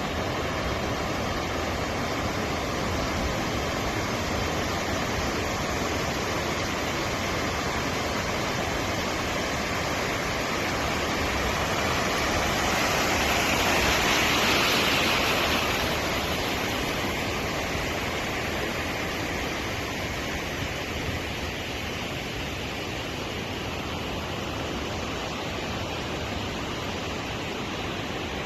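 Sea surf: a steady rush of waves, one wave swelling louder about halfway through and then fading back.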